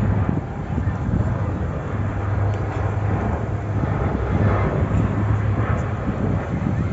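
Steady low engine drone with an even hum under outdoor noise, holding level with no clear swell or fade.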